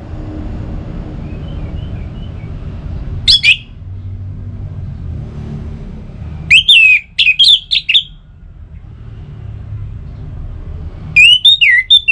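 Orange-headed thrush singing loud, rapid phrases of sweeping whistled notes in three bouts: a short one about three seconds in, a longer run of several phrases in the middle, and another near the end. A steady low rumble runs underneath.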